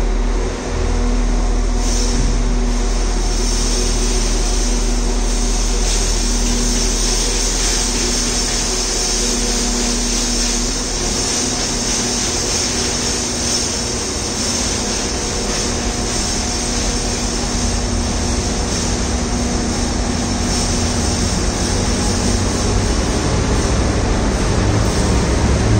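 Steady mechanical hum of a train standing at a station platform: a few held tones over a low rumble and a high hiss.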